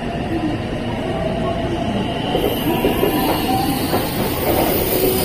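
JR West 223/225-series electric train running through the station with a steady rumble and some motor tones. A high thin squeal from the wheels or brakes starts about halfway through.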